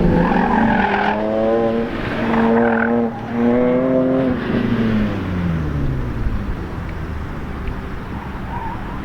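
An autocross car's engine accelerating hard through the gears, its pitch climbing in three rising pulls with short breaks at the shifts. The pitch then slides down as the driver comes off the throttle, and the engine runs on steadily at lower revs.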